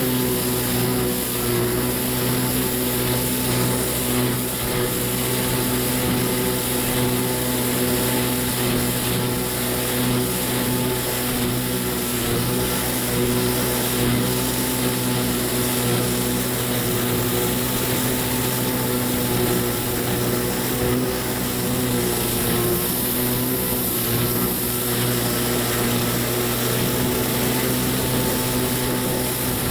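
Kawasaki 650SX stand-up jet ski's two-stroke twin engine running at a steady speed, its pitch holding even, over a steady rushing noise.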